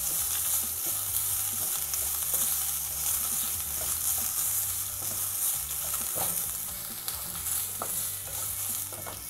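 Grated coconut, split roasted chickpeas, shallots and chillies sizzling in a little oil in a nonstick kadai as they are sautéed to light brown, stirred with a wooden spatula that scrapes lightly on the pan. The sizzle gets softer near the end.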